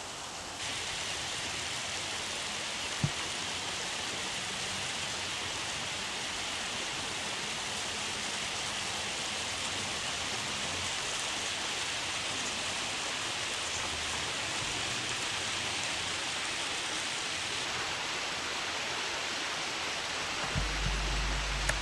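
Steady rushing hiss of flowing river water. There is a single sharp click about three seconds in and a few low thumps near the end.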